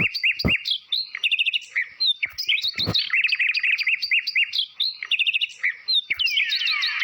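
Sampled birdsong chirps played from an electronic Octapad intro patch: fast, repeated high chirps, with two deep thumps in the first three seconds. Near the end, falling whistle-like sweeps come in over the chirps.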